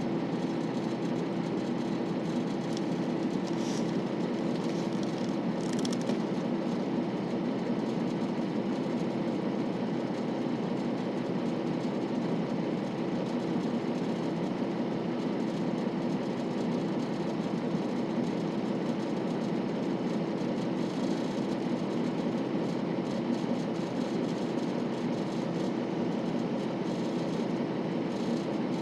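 Interior of a KiHa 40 series diesel railcar: the diesel engine drones steadily at an even pitch and level throughout, with a few faint clicks in the first few seconds.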